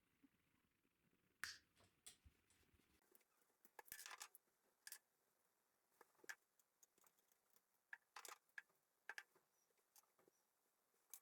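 Faint, irregular clicks and brief scrapes of small metal parts and hand tools being handled, a dozen or so scattered sounds with a slightly longer scrape about four seconds in.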